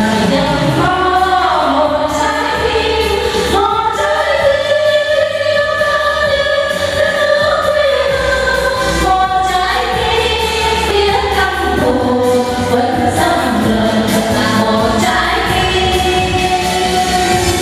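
Vietnamese song sung live over musical accompaniment, with long held vocal notes over a steady backing.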